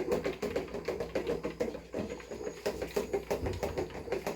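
Quick, irregular clicking and scraping of a spoon working ground corn through a small kitchen sieve to strain it, several clicks a second.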